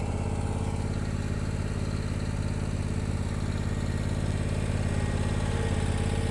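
Bad Boy Elite zero-turn lawnmower's engine running steadily with an even low drone, getting slightly louder near the end.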